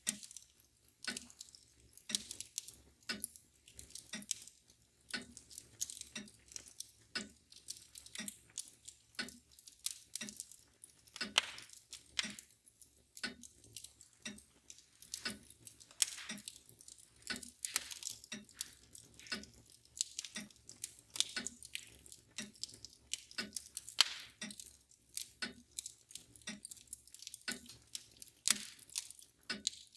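Wood fire crackling with irregular sharp snaps and pops, over the steady ticking of a mantel clock.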